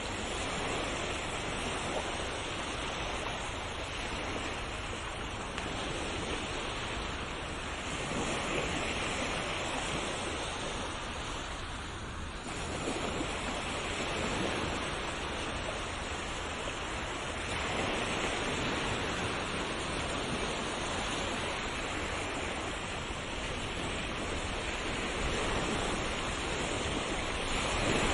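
Ocean waves breaking and washing on a shore. The surf is a continuous rush that swells and eases every few seconds.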